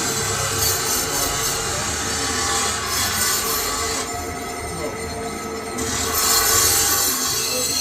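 Metal lathe cutting steel: a loud, steady scraping screech from the cutting tool on the turning workpiece. The high screech drops away for a couple of seconds about halfway through, then returns.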